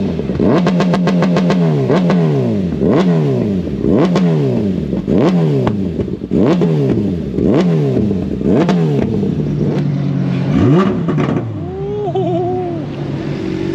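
An engine being revved in quick blips about ten times, roughly once a second, its pitch jumping up and falling back each time, then settling to a steady idle near the end.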